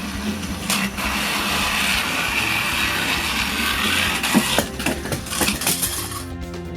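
Small electric motors of battery-powered toy trains whirring steadily, with a cluster of sharp clattering knocks about four to six seconds in.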